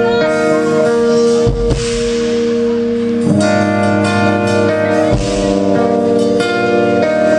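Guitar playing sustained, ringing chords on stage, a new chord struck about every second and a half to two seconds.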